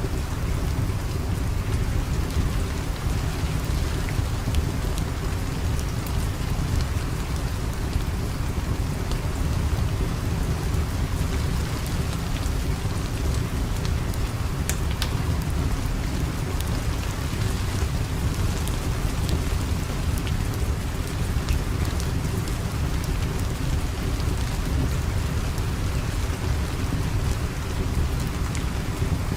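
Steady rain falling, with a deep low rumble under it and occasional faint sharp ticks.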